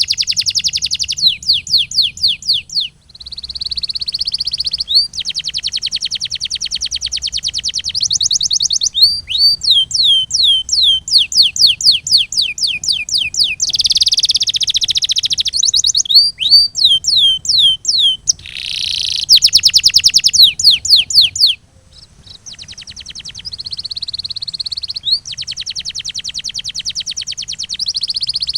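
Male canary singing: phrases of fast, even rolling trills alternate with series of repeated sharp, downward-sliding chirps, all high-pitched, with a brief break about two-thirds of the way through.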